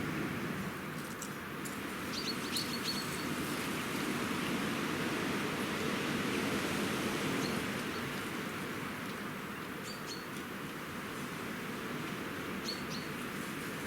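Steady outdoor background noise with a few short, high bird chirps at intervals of a few seconds.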